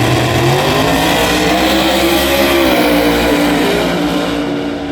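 Drag-racing car's engine at full throttle as it accelerates down the strip; its pitch climbs, then drops back and holds, and it fades near the end.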